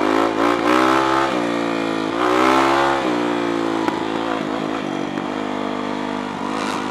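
Supermoto dirt bike engine revving under acceleration, its pitch climbing twice in the first three seconds, then holding steady at speed.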